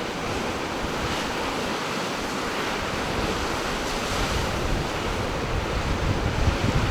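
Ocean surf washing steadily, with gusts of wind buffeting the microphone as a low rumble that grows stronger near the end.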